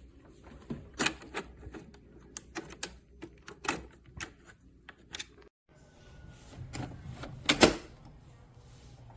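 A series of separate light clicks and knocks, with the loudest pair about two-thirds of the way through, typical of handling small hard parts of a capsule coffee machine and its cup.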